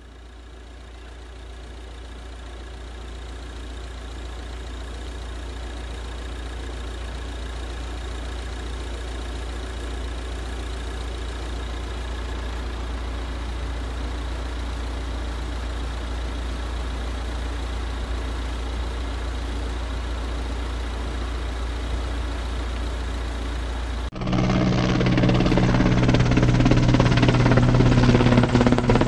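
A steady low rumble that slowly grows louder. About 24 seconds in it cuts to a firefighting helicopter's rotor and engine, louder and closer, with a strong steady drone.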